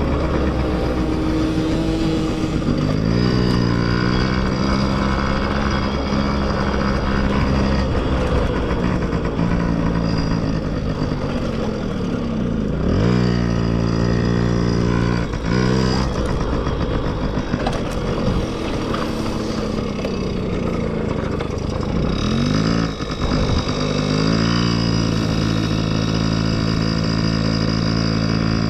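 Small dirt bike engines revving, their pitch climbing and falling again and again, with several sharp drops and quick rises as the bikes shift or pass, over a steady low rumble.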